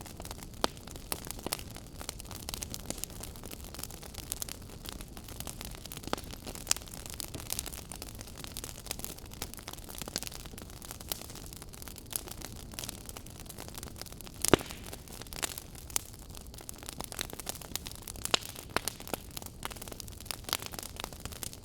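Wood fire in a fireplace crackling: irregular sharp pops and snaps over a soft steady hiss, with one louder pop a little past the middle.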